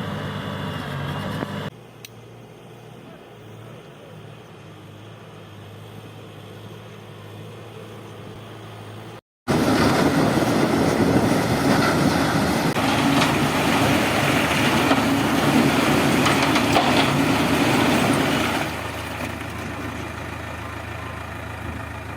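Engine of a heavy earthmoving machine running, with abrupt changes in level. It is quieter through the first half, then much louder and rougher for about ten seconds under working load, then settles back to a steadier run.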